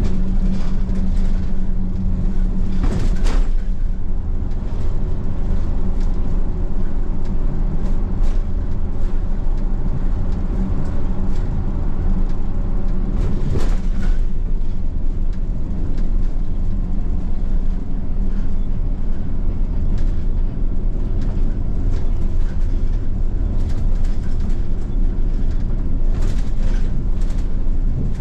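Bus engine and road noise heard from inside the cabin: a steady low drone with a humming tone, broken by a few short knocks or rattles, one about three seconds in and another around thirteen seconds.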